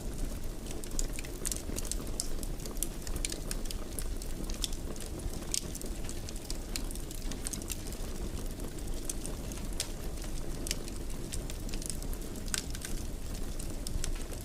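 Fire burning in a fireplace, crackling with many sharp pops scattered over a steady low rumble of flames.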